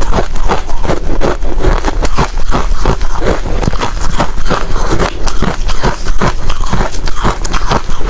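Ice being chewed close to the microphone: loud, rapid crunching and crackling, many crunches a second without a break.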